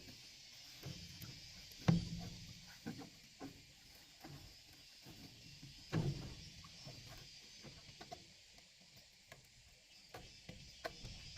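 Scattered knocks and clicks with two heavier thumps, about two seconds and six seconds in, over a steady high hiss.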